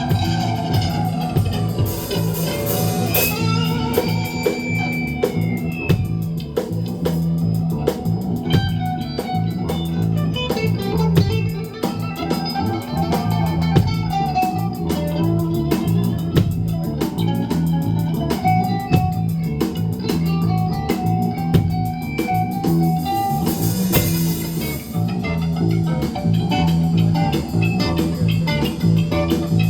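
Live rock band playing an instrumental passage: an electric guitar carries the melody over bass guitar and a drum kit, with cymbal crashes about two seconds in and again near the end.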